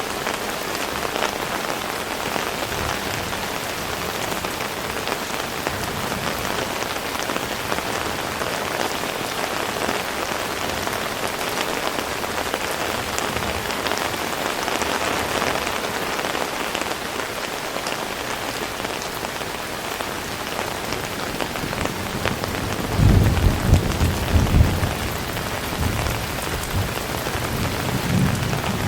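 Heavy rain falling steadily in a dense even hiss, with a low rumble lasting about two seconds near the end.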